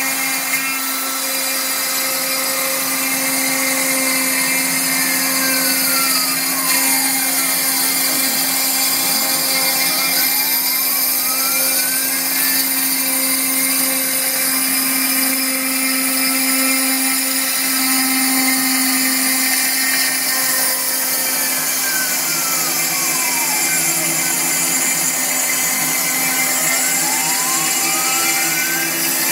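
Phlatprinter MK1 CNC machine running: a steady whine from the cutting spindle, with the stepper motors' tones gliding up and down in pitch in slow arcs as the axes speed up and slow down, tracing a spiral cut in foam board.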